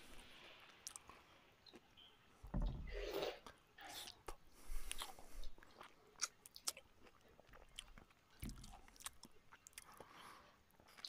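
A person eating rice and curry by hand: close chewing and wet mouth sounds, with many sharp little clicks of fingers and food against a steel plate.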